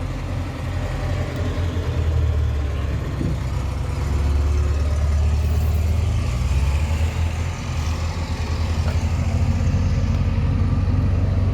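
Scania P 360 truck's diesel engine idling steadily.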